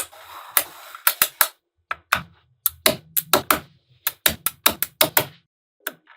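Small magnetic balls clicking sharply against each other in quick, irregular runs as they snap into place.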